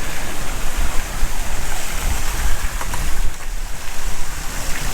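Wind buffeting the microphone outdoors: a steady rushing hiss with a gusty low rumble that swells and dips.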